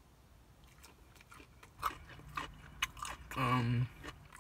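Close-up chewing of a mouthful of broccoli, with a few sharp crunchy bites, then a short hum from the eater about three and a half seconds in, the loudest sound.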